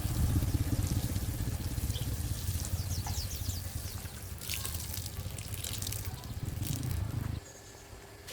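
Water running and splashing, with a heavy low rumble close to the microphone, that cuts off abruptly about seven seconds in.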